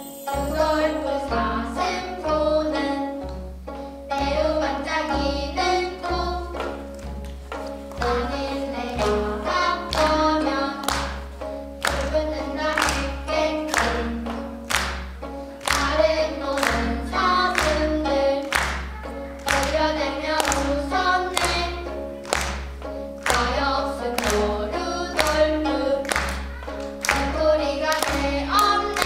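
A group of children singing in unison while playing gayageum, a Korean plucked zither, over a steady beat of sharp strikes.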